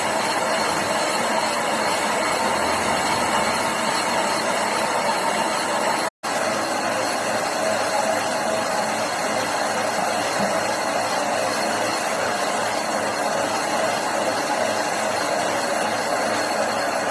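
Metal lathe running steadily, a constant mechanical noise that drops out abruptly for a moment about six seconds in.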